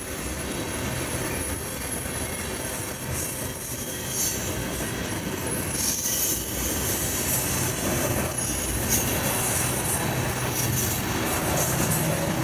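Railroad cars rolling past over steady rumble, with brief high-pitched wheel squeals coming and going.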